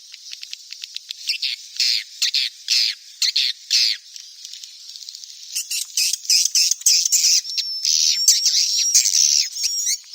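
Swiftlet chicks calling: a fast run of short, high clicking chirps, then longer buzzy chirps from about a second in, building into a dense twittering chorus with a thin, wavering high whistle over the last few seconds. This is the kind of chick-call recording played from swiftlet nest houses to lure the birds in to roost.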